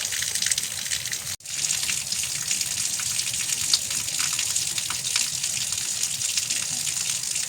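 Steady heavy rain, a dense hiss full of fine patter, cutting out for an instant about a second and a half in.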